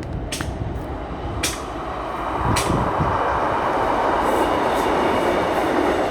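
Class 150 Sprinter diesel multiple unit running past. Three sharp clicks come early, then the rumble of the train grows louder about two seconds in and holds steady.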